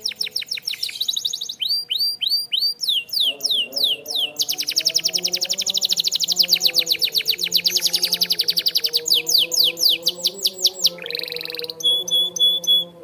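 Canary singing a fast, varied song of rapid trills and runs of sweeping notes. About eleven seconds in it gives a short buzzy note, then a few short, evenly spaced repeated notes near the end.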